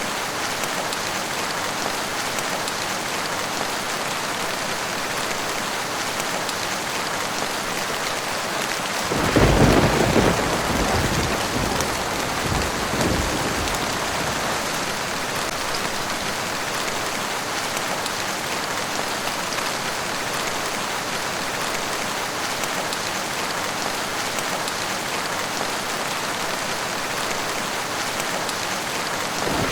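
Steady rain falling. About nine seconds in, a loud crack of thunder breaks in and rumbles for several seconds before dying away, and another rumble starts just at the end.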